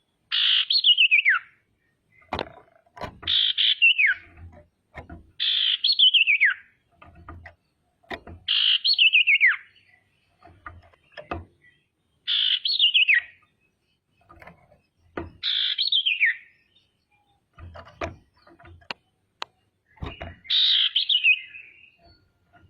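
Female common iora (sirtu) calling: a loud phrase about a second long that slides downward in pitch, repeated seven times at intervals of two to five seconds. Short sharp clicks come between the calls.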